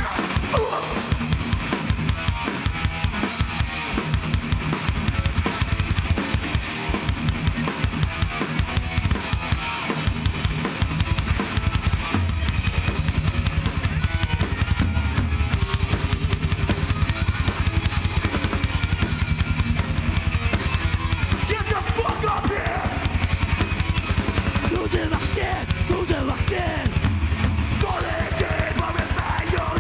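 Live heavy band playing an instrumental passage with no vocals: fast, dense drumming with bass drum and snare over distorted guitars and bass. About twelve seconds in, a heavy low bass tone comes in and holds under the drums.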